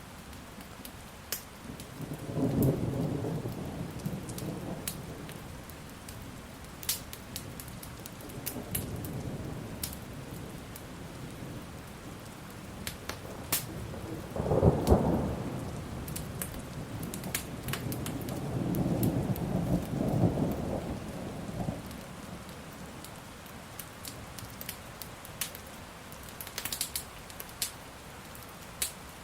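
Steady rain with rolling thunder: a rumble a couple of seconds in, a sharper, louder clap near the middle, and a long rumble after it. Sharp crackles from a burning fire are scattered throughout.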